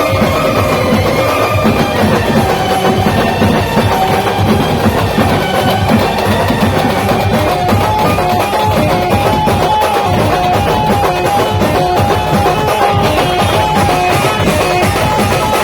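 A local Maharashtrian band playing loud, continuous music. Dense, fast drumming runs under a melody line, which settles into a quick back-and-forth two-note figure about halfway through.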